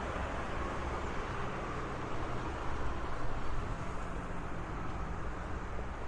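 Steady road traffic noise: a continuous rumble and hiss of cars, a little louder about halfway through.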